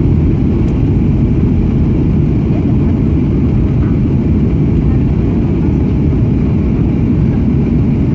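Steady low rumble of a Boeing 737-800 in flight on approach: its CFM56-7B engines and the rushing air around the airframe, heard from inside the cabin.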